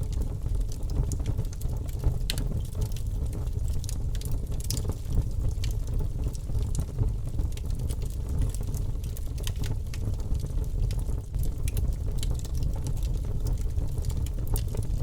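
Fire burning in a fireplace: a steady low rumble of the flames with frequent sharp crackles and pops scattered throughout.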